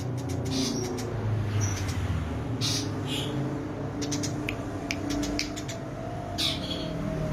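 Eurasian tree sparrows giving short, sharp chirps in scattered bursts, the calls of sparrows fighting, over a low steady rumble.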